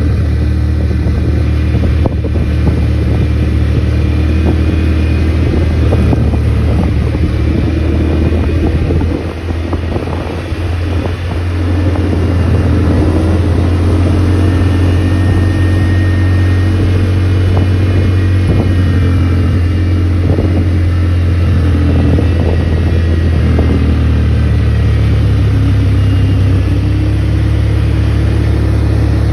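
ATV engine running steadily, its level dipping briefly about nine seconds in before it picks up again.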